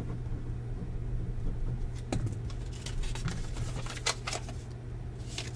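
A few light clicks and brief rustles of small objects being handled, over a steady low hum.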